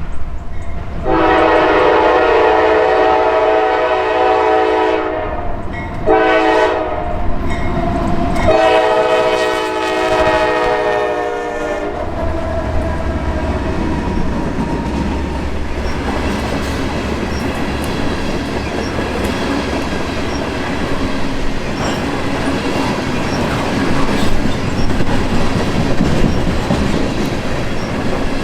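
Horn of a Norfolk Southern GE AC44C6M locomotive sounding three blasts (long, short, long), then the grain train passing with a steady loud rumble and the wheels clicking over rail joints.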